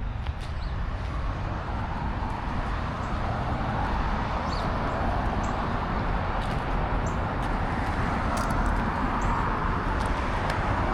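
Steady road noise from vehicles, a rushing hiss that grows louder over the first few seconds and holds, with a few faint short high chirps over it.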